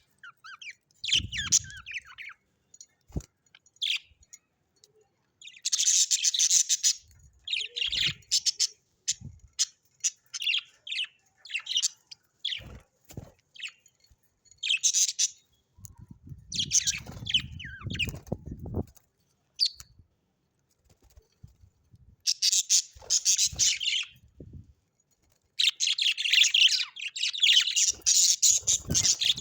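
Birds chirping and chattering in short irregular bursts, with a low rumbling thud partway through and a long run of dense chirping near the end.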